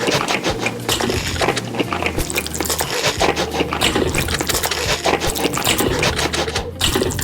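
Noodles being slurped and chewed: continuous wet mouth sounds with many small clicks and smacks.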